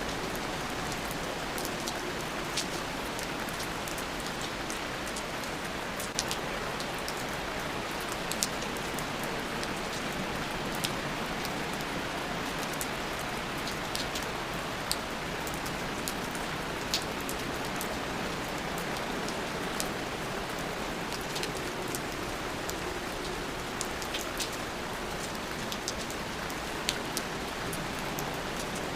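Steady rain, with a constant hiss and scattered sharp drip ticks of individual raindrops landing close by.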